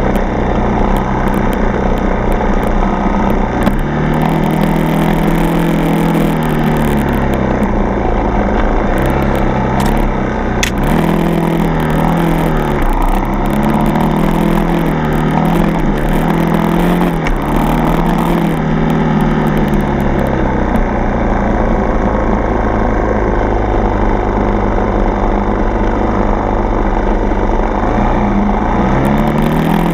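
Dirt bike's single-cylinder four-stroke engine running under way, its note rising and falling again and again as the throttle is opened and closed, then holding steadier through the second half.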